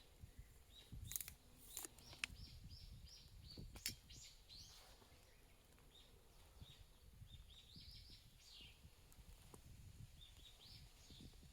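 Small birds chirping in many short, high notes, with a few sharp clicks in the first four seconds.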